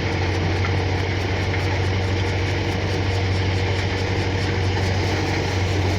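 John Deere 5050D tractor's diesel engine running steadily with the thresher it drives, a constant low drone.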